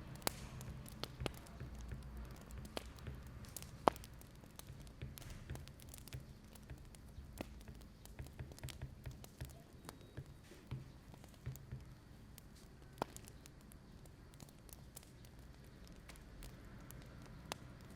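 Wood fire crackling: scattered, irregular sharp pops and snaps over a low, steady rumble, with one louder pop about four seconds in.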